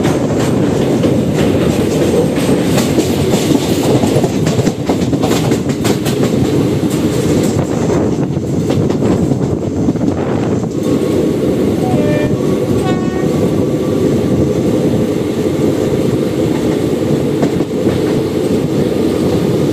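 Express passenger train running at speed, a steady loud rumble with wheels clattering over the rails. Past the middle comes a brief horn-like tone.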